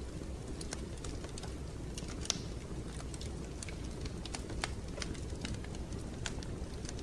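Wood fire crackling in a fireplace: irregular sharp pops and snaps over a steady low rumble, with one louder pop a little over two seconds in.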